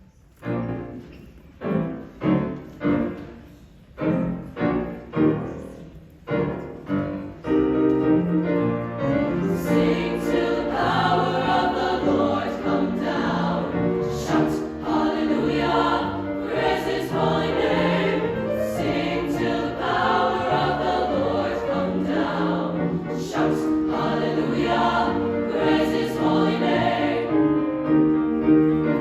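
SSA treble choir singing with piano. It opens with a run of short, separate chords, then the singing becomes continuous from about eight seconds in.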